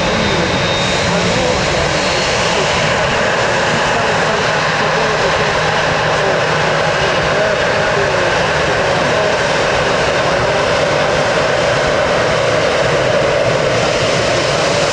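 Jet airliner engines running, a loud steady noise that neither builds nor fades.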